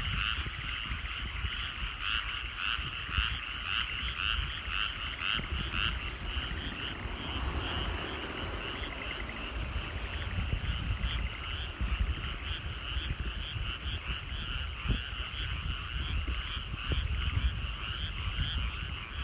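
Chorus of rice-paddy frogs croaking in steady repeated calls. In the first several seconds one caller's pulses stand out at about two a second, then the overlapping chorus thickens. A low rumble runs underneath.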